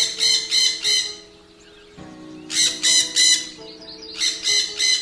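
Bird-call sound effect: three groups of quick, high chirps, about three to a group, over soft sustained background music.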